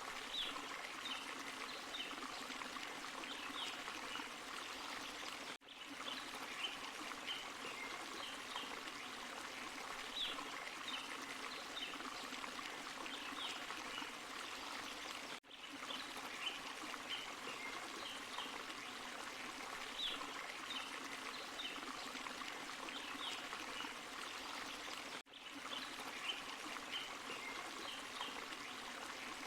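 Small forest stream and waterfall, water splashing and running steadily, with short high chirps of small birds or insects over it. The sound cuts out for a split second about every ten seconds, where a looped recording starts over.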